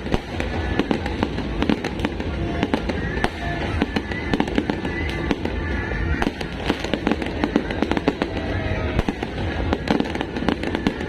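Fireworks display going off in rapid succession: a dense, continuous stream of bangs and crackles without a break, with music playing underneath.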